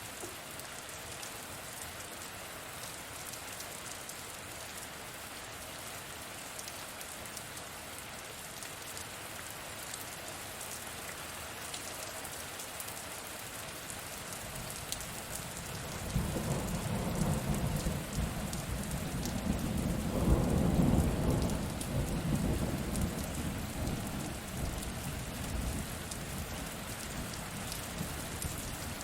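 Steady rain falling, with a long rumble of thunder that comes in about halfway through, swells to its loudest a few seconds later, then dies away.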